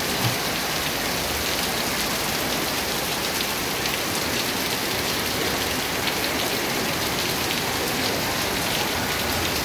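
Heavy rain pouring onto wet cobblestone pavement and parked vehicles: a steady, dense hiss of rainfall flecked with the hits of individual drops.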